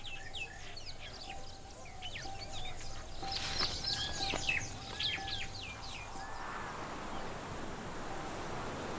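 Birds calling: many short, high, falling chirps and whistles, with a few arching calls in the middle. From about six seconds the calls die away and a steady rushing noise takes over.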